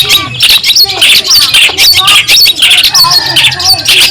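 Long-tailed shrike (cendet) singing loudly: a fast, unbroken run of harsh chattering notes mixed with short whistled slurs.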